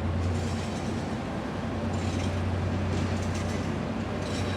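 Diesel locomotive engines running with a steady low drone.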